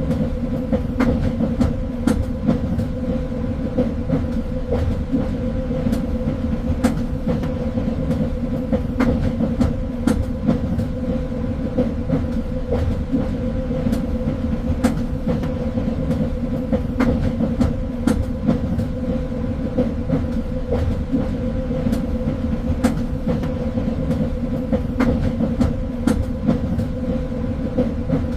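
Train in motion: a steady rumble of the rail car with a constant hum, and frequent sharp clicks of the wheels over the track.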